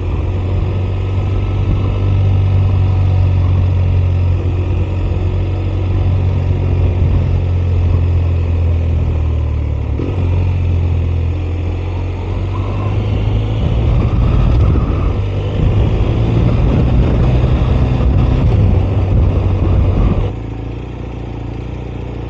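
BMW R 1250 RS boxer-twin engine running, a steady low drone that changes pitch a few times and drops sharply in level near the end.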